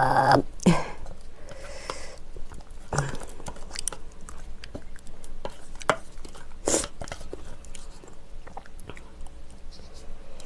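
Close-miked chewing and mouth sounds of a person eating, with scattered short clicks and one louder click about seven seconds in.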